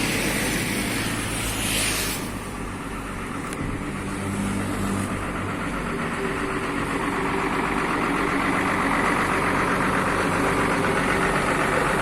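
Bus diesel engine idling through a newly fitted loud aftermarket exhaust, getting gradually louder over the second half. A brief hiss is heard over the first two seconds.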